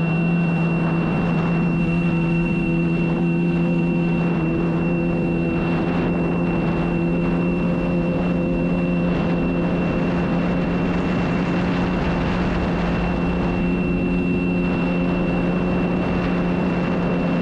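Sea-Doo jet ski engine running at a steady speed, with a continuous high-pitched warning tone sounding over it: the high-temperature alarm.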